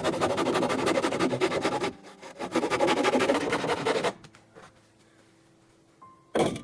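Rough scraping on wood in two spells of quick strokes, about two seconds and then a second and a half, followed by a single sharp knock near the end.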